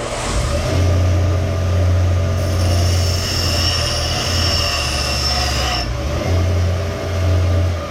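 Power grinder running, its abrasive grinding the steel of an axe head to take more off one corner of the bevel. A steady motor hum under the grinding noise, with a high-pitched metal screech from about two and a half to six seconds in.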